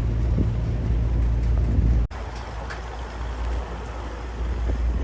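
Tour boat's engine running, a steady low rumble. About two seconds in the sound drops abruptly and continues as a quieter rumble.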